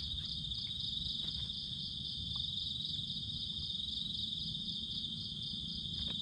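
A steady chorus of night insects trilling continuously at a high pitch, over a low steady rumble.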